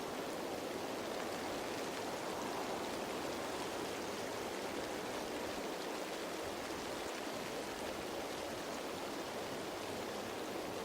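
Steady rain pattering on leaves, a dense even hiss of drops with no breaks.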